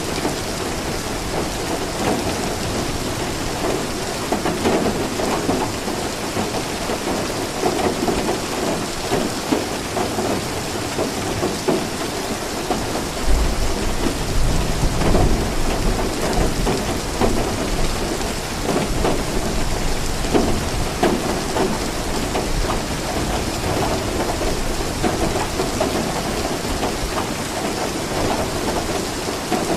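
Steady rain falling and pattering on surfaces, with a low rumble of thunder roughly halfway through.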